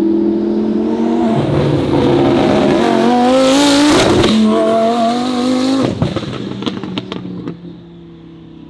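Twin-turbo Lamborghini Huracan V10 accelerating hard, its pitch climbing through the gears with a drop at each shift. About six seconds in it lifts off and the exhaust gives several sharp pops and bangs, the backfire that shoots flames from the tailpipes.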